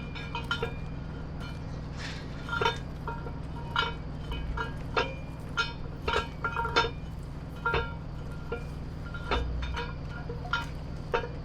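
Light metallic clinks and jingles, irregular and scattered throughout, each with a short ring, over a steady low hum.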